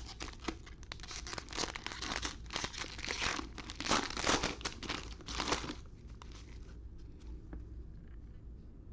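Trading-card pack wrappers being torn open and crinkled: a run of crackling rips for about six seconds, which then dies down to faint rustles.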